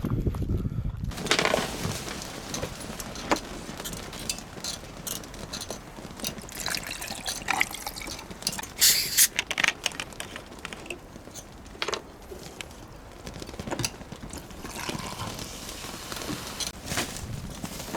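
Liquid being poured and splashing, with scattered clicks and knocks throughout.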